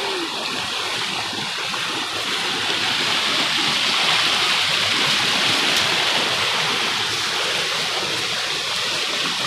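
Rain-swollen stream rushing steadily, a loud even roar of floodwater after heavy rain.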